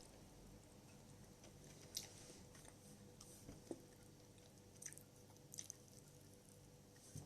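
Quiet sounds of a person eating crab: faint chewing with a handful of small clicks, over a faint steady hum.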